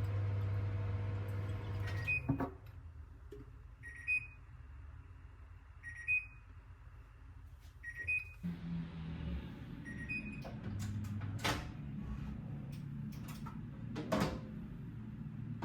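Microwave oven running with a low hum that stops about two seconds in. Its end-of-cycle beep then sounds five times, a short two-tone beep about every two seconds. A few sharp clicks and knocks come in the second half.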